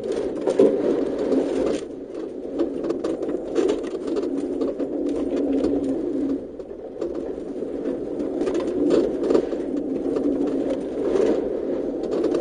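A 4x4's engine droning, heard from inside its cabin while driving a rough dirt track, with many irregular knocks and rattles from the bumps.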